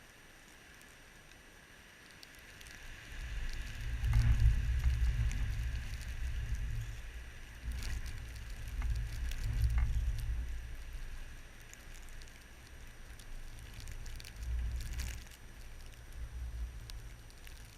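Blizzard wind gusting against the microphone: a low buffeting rumble that picks up about three seconds in and comes and goes in several gusts, over a faint steady hiss, with a few light ticks.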